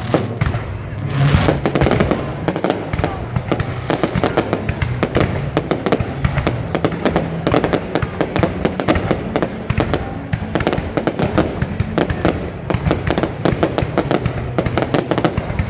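Aerial fireworks display going off in a dense, unbroken run of sharp bangs and crackles, many a second.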